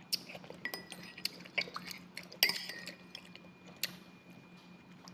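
Cutlery clinking against a dish in several separate sharp strikes, each with a brief ring. The loudest strike comes about halfway through.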